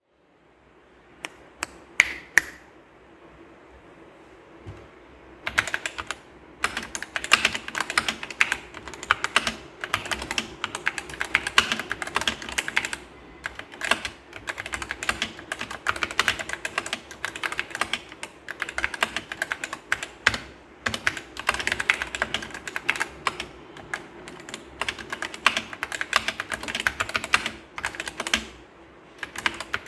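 Typing on a 64% optical-switch mechanical keyboard, the Paradox Ghost OPT64 (a clone of the Skyloong SK64): a few single keystrokes, then fast continuous typing from about five seconds in.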